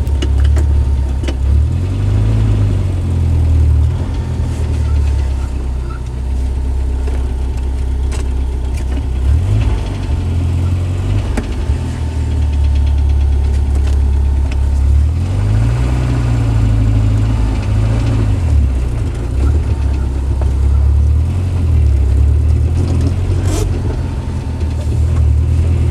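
1990 Jeep Wrangler's 2.5-litre four-cylinder engine running as the Jeep is driven, its pitch rising and falling several times as it revs up and settles back.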